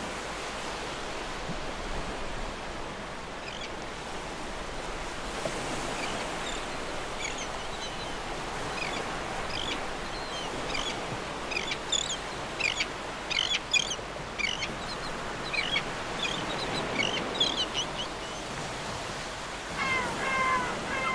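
Beach ambience: a steady rushing background with many short, high bird chirps through the middle, then seagulls starting to call near the end.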